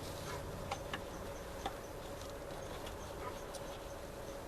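Quiet background with a faint steady hum and a few light clicks, about three in the first two seconds.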